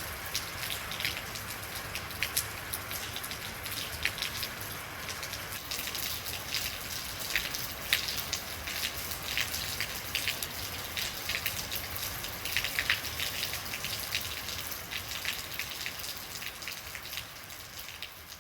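Real rain falling: a steady hiss with many sharp drops striking a surface, fading down near the end.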